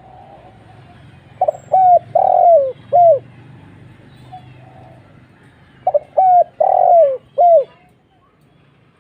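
Spotted dove (tekukur) cooing: two phrases, each of four coos with a longer, falling third note, of the deep single-'kuk' call type.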